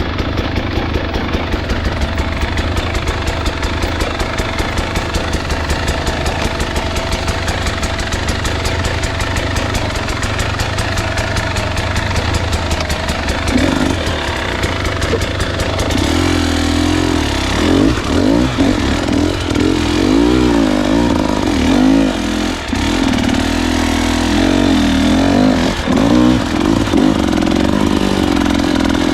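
Husqvarna enduro dirt bike engine running at a steady low speed for about the first half, then revving up and down with the throttle from about halfway on as the bike rides.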